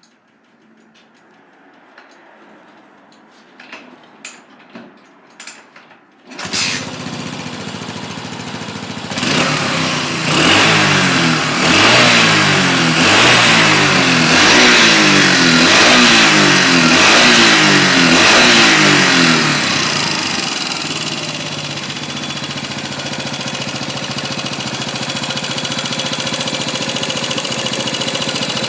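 2003 Yamaha SR400's air-cooled 399 cc single-cylinder four-stroke engine starting after a few clicks and knocks, catching about six seconds in. It is blipped up and down about once a second for roughly ten seconds, then settles to a steady idle.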